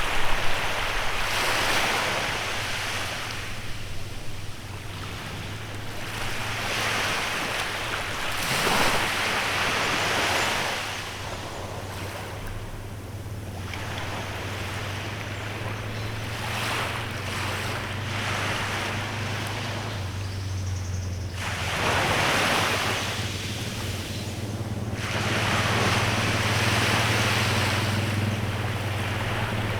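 Small waves washing onto a beach, in surges every few seconds. Underneath runs a steady low engine hum that grows louder near the end.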